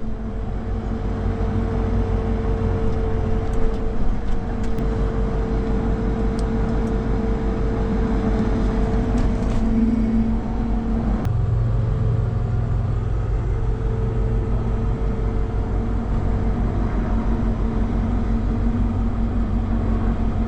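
Self-propelled windrower's engine running steadily, its fast firing pulse even throughout. About eleven seconds in the note changes and a deeper hum comes in, then it runs on steadily again.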